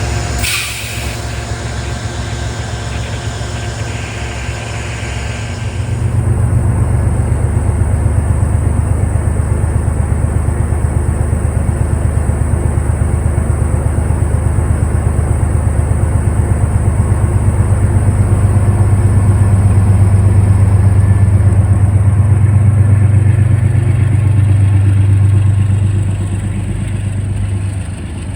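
Diesel locomotive engine running hard with a low, rapid throb. It swells about six seconds in, grows louder through the middle and eases off near the end.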